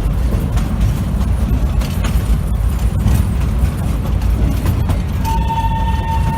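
Narrow-gauge train running, a loud steady low rumble with scattered clicks, heavily buffeted by wind on the microphone. About five seconds in, a steady high horn tone starts and holds.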